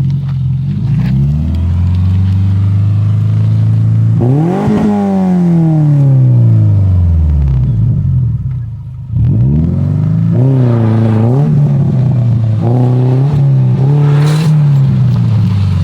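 A 2004 Subaru Forester's naturally aspirated 2.5-litre flat-four, breathing through a Tsudo cat-back exhaust built for an Impreza WRX, revving hard and loud. The pitch climbs, peaks about five seconds in and falls away over the next few seconds. After a brief drop near nine seconds, it rises again in several short rev swings.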